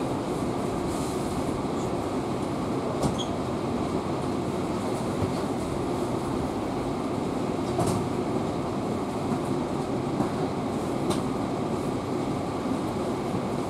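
Passenger train coach rolling into a station, heard from inside the coach: a steady rumble of wheels on rail, with a few sharp clicks and squeaks from the wheels about three, eight and eleven seconds in.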